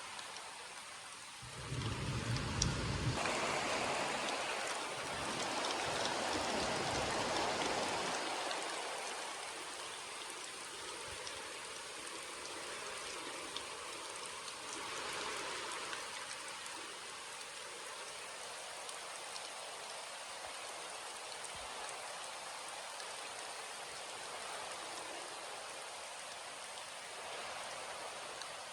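Steady rain falling, an even hiss of drops. About a second and a half in, a deep low rumble comes in and swells for several seconds before dying away, leaving the rain alone.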